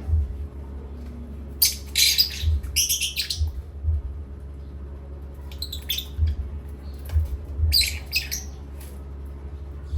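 Pet parrot squawking: four harsh, shrill calls in two pairs, over a steady low hum.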